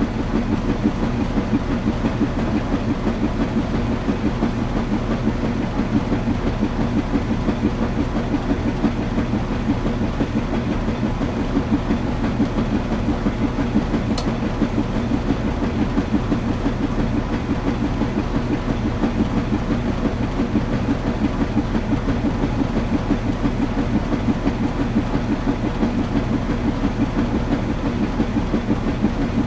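Washing machine running: a steady mechanical churning hum with a fast, regular pulse, and one faint tick about halfway through.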